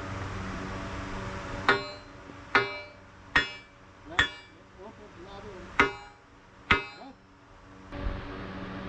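Hammer blows on steel, six in all, each ringing briefly. Four come about a second apart, then after a short pause two more.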